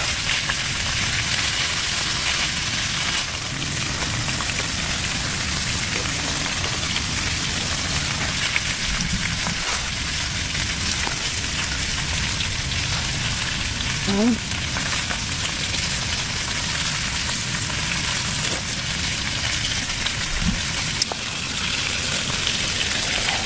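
Continuous fine crackling and squishing from wet slate pencil paste, much like food sizzling in a pan. Twice a brief faint rising squeak cuts through.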